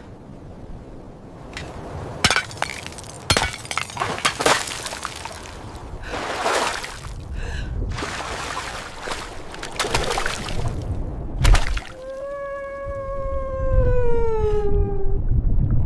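A run of sharp cracking and breaking sounds, then one long call lasting about three seconds that slowly falls in pitch, like a howl.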